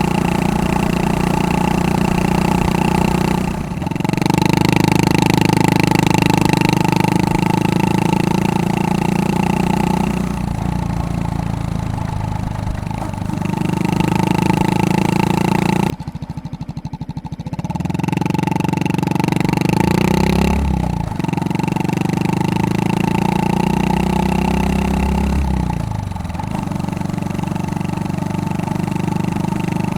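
Honda Super Cub 110's single-cylinder four-stroke engine running through a Takegawa P-Shooter aftermarket muffler while riding. The revs hold steady in stretches, then dip and fall with throttle and gear changes. There is a sudden break about halfway through.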